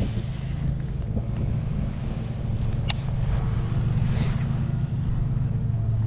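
Steady hum of a boat motor running, over low wind rumble on the microphone, with a single sharp click about three seconds in.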